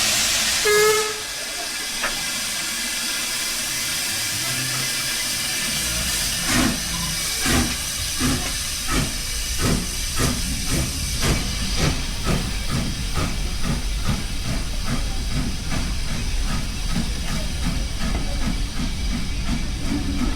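Steam locomotive standing with steam hissing, then starting away: exhaust chuffs begin about six seconds in and quicken steadily as it gathers speed, over a low rumble.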